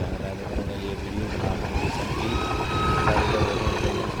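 Diesel locomotive running: a steady low engine rumble, with a whine that rises about halfway through, holds briefly, then slowly falls in pitch.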